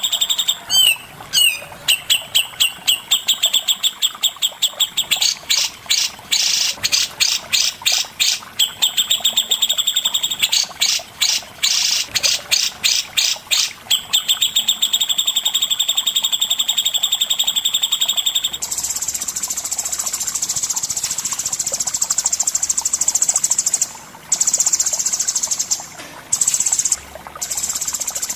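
Songbird singing: fast runs of repeated high, sharp notes and trills. About two-thirds of the way through, the song changes to a dense, buzzy high chatter broken by a few short gaps.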